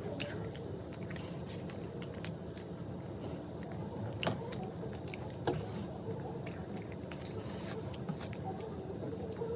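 Close-miked chewing of food, with many crisp crunches and two sharper, louder crunches a little past the middle.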